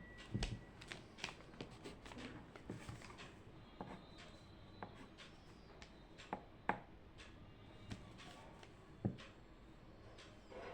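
Irregular light taps and clicks of someone working at a desk, a few louder knocks among them, over faint room hiss.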